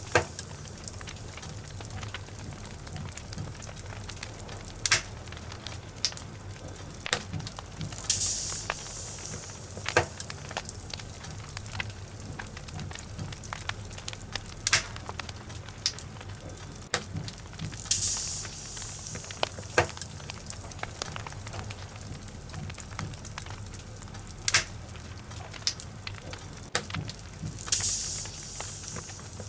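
Wood fire burning in a fireplace: logs crackling with scattered sharp pops over a steady hiss, and a soft hissing swell about every ten seconds.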